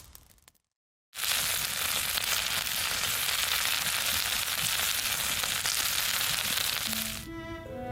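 Food frying in a hot pan: a steady sizzle with fine crackles that starts abruptly about a second in and runs on without a break. Light stringed music comes in near the end.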